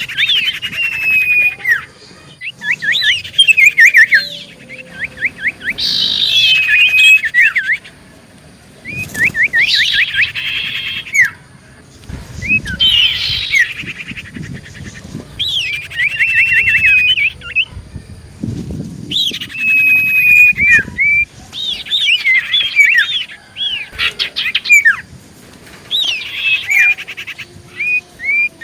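Common iora (cipoh) singing loudly in repeated phrases of rapid trilled notes and short whistles, one phrase every couple of seconds, a lure song for drawing other ioras.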